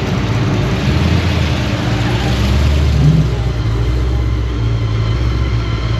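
A car engine running at idle with a deep, steady exhaust rumble.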